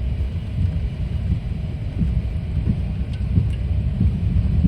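Steady low rumble inside a private jet's cockpit while it taxis after landing: engine and airframe noise, with a couple of faint clicks.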